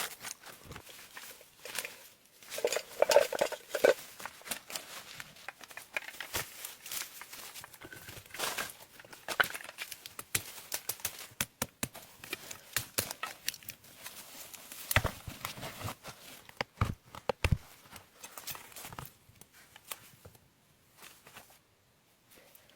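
Irregular rustling, crinkling and crackling from material being handled, with sharp clicks throughout and a few heavier knocks about two-thirds of the way through.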